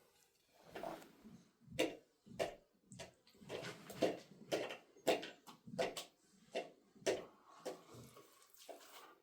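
Water splashing in a run of short, sharp strokes, about two a second.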